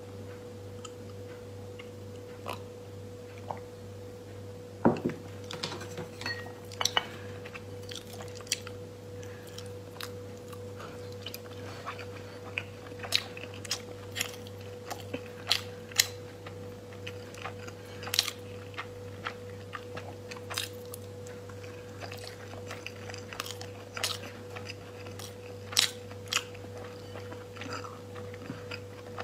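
A person chewing raw salmon sashimi, heard as a run of short, wet mouth clicks and smacks every second or so. A steady low hum runs underneath.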